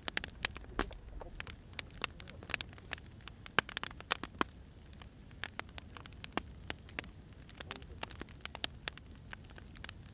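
Firewood burning, crackling with many irregular sharp pops and snaps over a low steady rumble.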